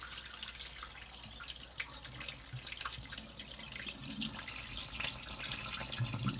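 Water running and splashing in a sink while wild bird seed is rinsed in a container, the rinse water now coming off pretty clear.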